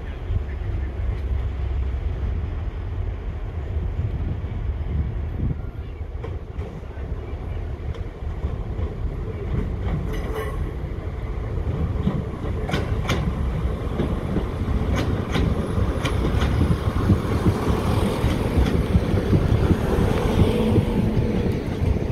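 Class 170 Turbostar diesel multiple unit approaching and passing, its diesel running growing louder as it nears. From about ten seconds in its wheels click sharply over rail joints and pointwork.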